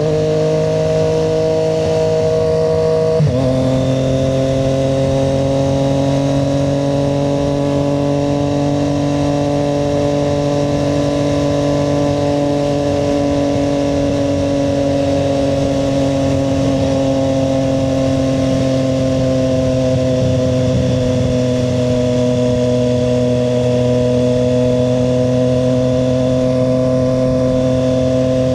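Triumph Street Triple 765 RS inline three-cylinder engine running under way, with a gear change about three seconds in that drops the engine note a little. After that it holds a nearly steady cruising note.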